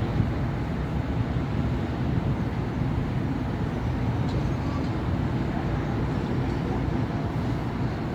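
Steady road traffic on a busy city avenue: a continuous low rumble of cars and buses passing, with no single vehicle standing out.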